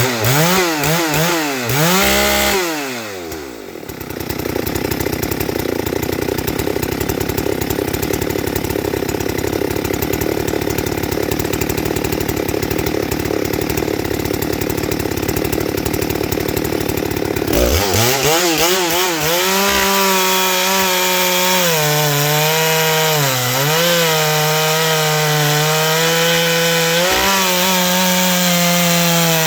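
Ported Husqvarna 394XP two-stroke chainsaw blipped a few times, then held at full throttle, then, from a little past halfway, loaded down in a cut through wood, its pitch holding steady with a few brief dips.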